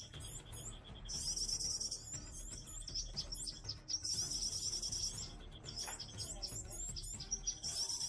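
Small birds chirping, with a high rapid trill about a second long repeated three times, short chirps in between and a steady high tone underneath.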